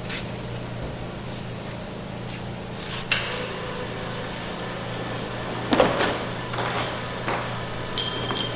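Steady low electrical hum under scattered metal clanks and knocks, the loudest cluster about six seconds in.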